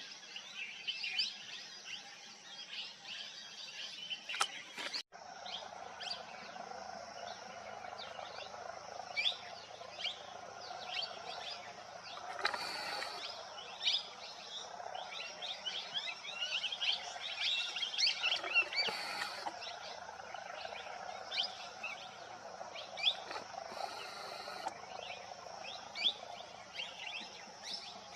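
Many birds chirping, with short high calls overlapping throughout over a steady high hum, and a brief break about five seconds in.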